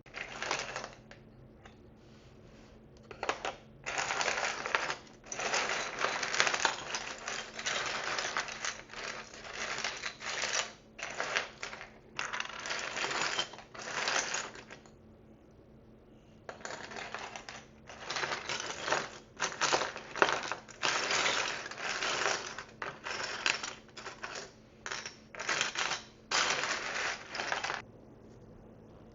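Small, hard miniature food pieces and tiny dishes clattering and rattling against each other as a box of them is rummaged through. The clicks come in dense bursts, with a short pause about halfway.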